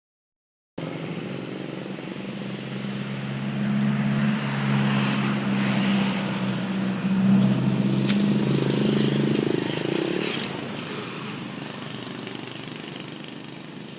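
A motor vehicle's engine running at a steady speed, growing louder and then fading away about ten seconds in.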